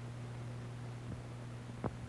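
Steady hum and hiss of a worn early sound-film soundtrack, with one sharp click just before the end.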